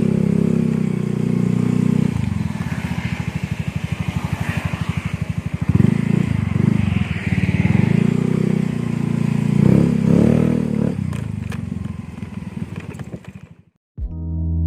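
Motorcycle with an aftermarket R8 'chicken pipe' exhaust running, a rapid even exhaust beat with the throttle blipped a few times, then fading out near the end.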